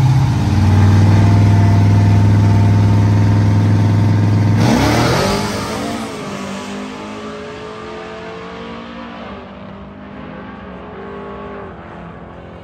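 A drag-racing truck's engine held at steady high revs on the start line, then launching about four and a half seconds in with a sudden rush. It accelerates through the gears as it fades away down the track.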